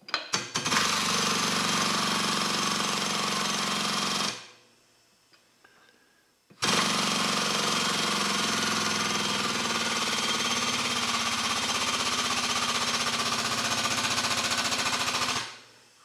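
Air-over-hydraulic foot pump running in two rapid chattering runs, about four seconds and then about nine, with a short pause between them, building pressure in a hydraulic hose crimper to crimp a fitting.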